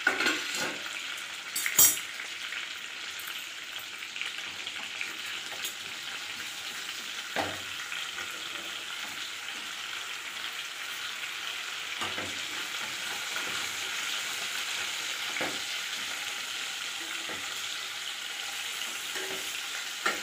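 Marinated chicken pieces sizzling steadily in oil and butter in an aluminium kadai, with a wooden spatula scraping and knocking against the pan a few times as the pieces are turned. There is a sharp clank about two seconds in.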